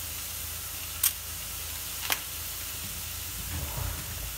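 Tomato and minced shrimp sizzling in fat in a stainless steel pot, a steady hiss, with two sharp clicks about a second apart and a few soft knocks near the end.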